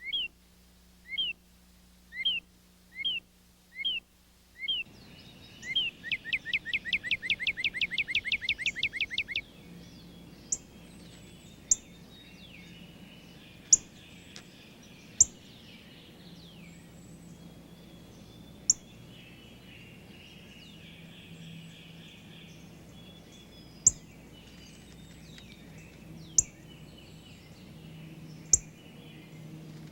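A songbird singing: about six slurred whistled notes roughly a second apart, then a fast trill of rapidly repeated notes lasting a few seconds. After that comes softer bird chatter with short sharp ticks now and then.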